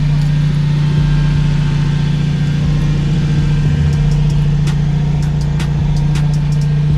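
Car engine idling steadily with a deep, even hum, with a few light clicks in the second half.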